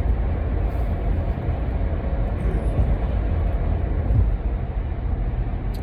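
Steady low rumble of vehicle road noise, with no distinct events.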